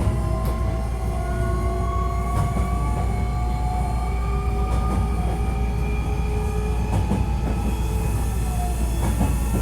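Onboard running sound of a Hankyu 1300 series electric train: the motor whine, several tones at once, rises slowly in pitch as the train gains speed. Under it runs a steady low rumble of wheels on rail, with a few clicks from rail joints.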